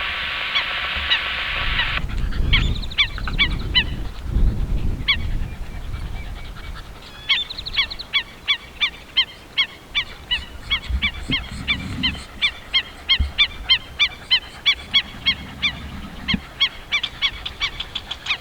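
American avocets calling: many short, sharp, high call notes repeated several times a second, scattered at first and then a dense run from about seven seconds in. A steady rushing noise fills the first two seconds, and wind rumbles on the microphone now and then.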